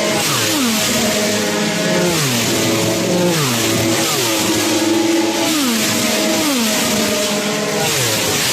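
Combustion racing motorcycle engines at high revs going by on track. The pitch holds and then drops, over and over, about once a second.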